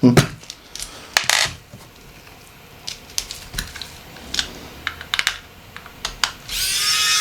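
Small clicks and taps of a Nokia 8910i's metal and plastic parts being handled and pried apart during disassembly, then near the end a louder scrape of more than a second with a high squeal in it.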